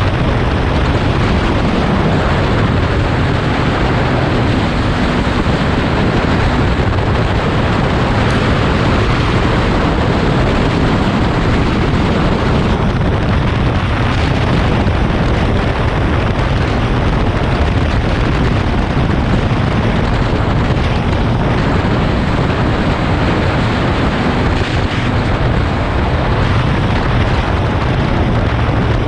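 Loud, steady wind noise buffeting the microphone of a motorcycle riding at speed, with the engine running underneath it.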